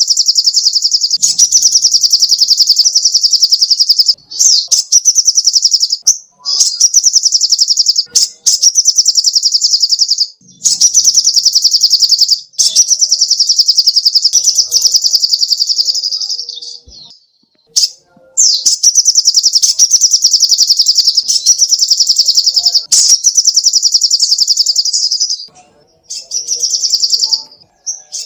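Sogok ontong (crimson sunbird) singing in long, very rapid high-pitched trills, each lasting a few seconds, with brief pauses between them.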